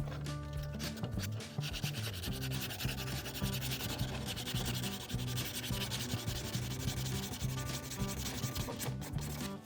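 Steady sanding with abrasive paper, rubbed back and forth over a hard surface, over background music with held low notes that change step by step.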